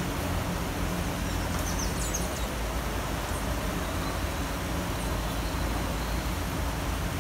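Steady rain falling in a city street, an even hiss over a low, constant rumble of city traffic. A few brief high chirps stand out about two seconds in.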